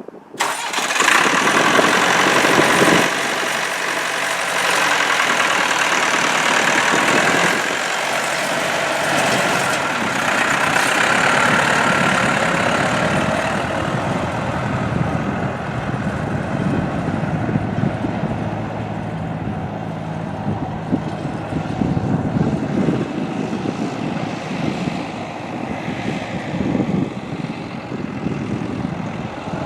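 1979 Massey Ferguson 285 tractor's four-cylinder Perkins diesel engine running, higher and brighter for the first dozen seconds, then dropping to a lower, steadier run about halfway through.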